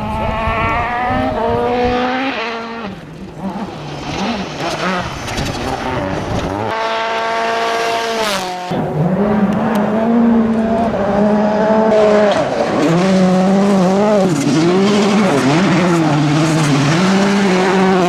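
World Rally Car engines at full stage speed, revving hard and dropping pitch at each gear change, in several separate passes cut one after another. Around the middle one engine holds a high, steady pitch for about two seconds before the next cut.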